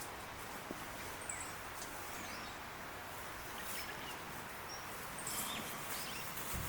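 Outdoor ambience: a steady hiss with a few short, high bird chirps scattered through it and some faint clicks.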